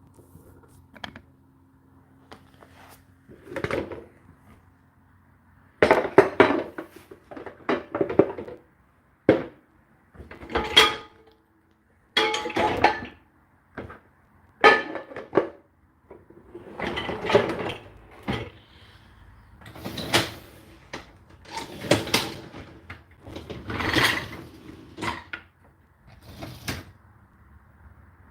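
Whirlpool dishwasher being handled at the end of its cycle: a low hum stops about four seconds in, then a long run of knocks and clatters from the door and racks, with dishes clinking and ringing.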